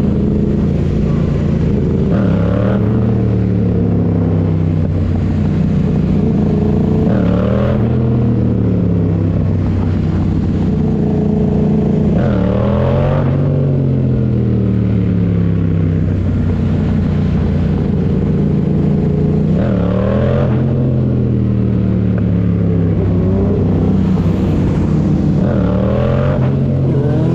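Motorcycle engine running steadily, revved up and back down five times, each rise and fall lasting a couple of seconds.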